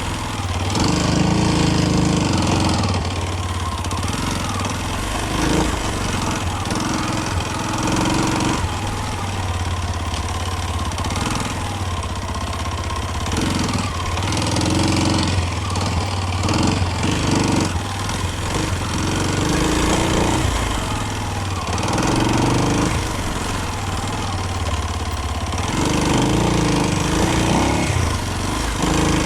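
Kawasaki KLX230's single-cylinder four-stroke engine running as the motorcycle is ridden, its note shifting under a steady hiss.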